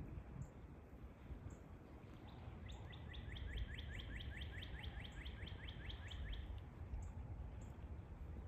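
A songbird's trill: a quick series of down-slurred notes, about five a second, lasting about four seconds in the middle. Faint high chip notes come and go over a low background rumble.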